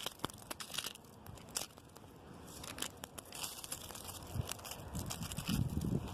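Strong wind gusting through tree branches: a dense, crackling rustle of leaves and twigs. Low wind rumble on the microphone swells about five seconds in.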